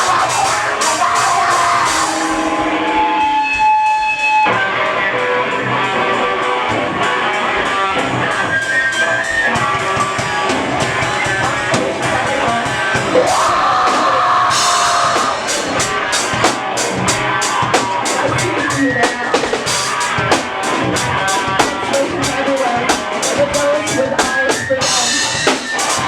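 Live rock band playing, drum kit with a fast, steady cymbal beat under guitar. The drums drop out about two seconds in, leaving held guitar notes, and come back in a couple of seconds later.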